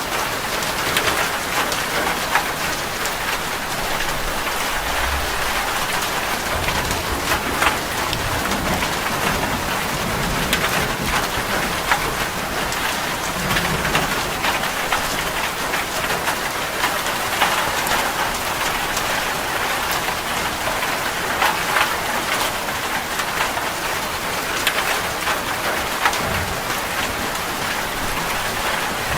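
Steady rain falling, with many sharp individual drop hits close by over an even patter.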